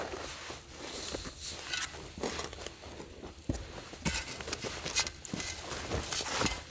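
Footsteps on forest ground with irregular thuds and scraping, busiest near the end.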